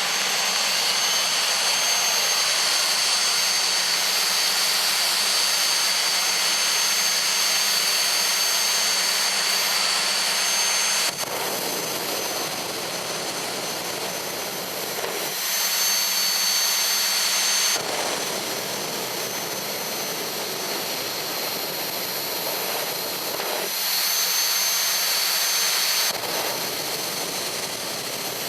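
Jet turbine engine of a jet drag-racing vehicle running steadily: a loud rushing roar with a high, steady whine on top. The sound changes abruptly several times, dropping quieter and thinner about eleven seconds in, then switching back and forth between louder and quieter.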